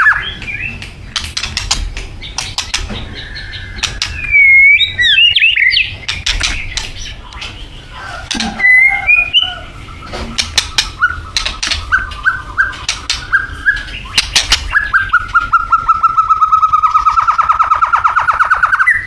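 White-rumped shama singing a varied song of whistled glides and sharp clicking notes. Near the end it breaks into a long, fast trill held on one pitch.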